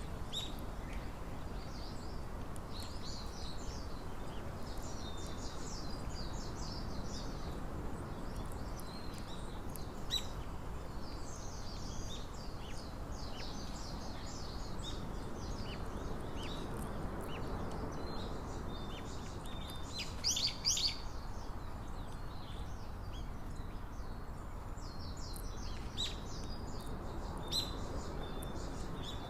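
Small birds chirping in short, repeated calls over a steady low background rumble, with a louder flurry of chirps about two-thirds of the way through.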